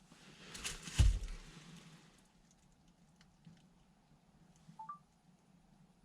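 Indoor ambience with a low steady hum, a heavy thud about a second in, scattered light clicks, and a short rising two-note chirp near the end.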